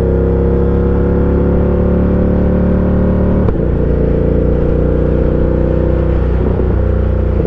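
Ducati Diavel 1260's 1262 cc V-twin engine running under load while riding. Its note climbs slowly, then changes abruptly about three and a half seconds in and runs on steadily.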